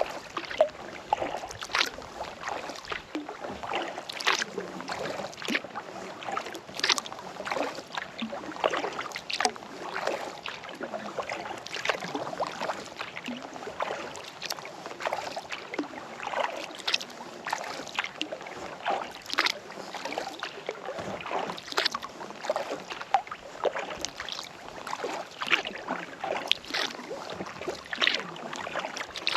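Kayak paddle strokes in lake water: blades dipping in and pulling through with splashes and drips off the paddle, a louder stroke about every two and a half seconds.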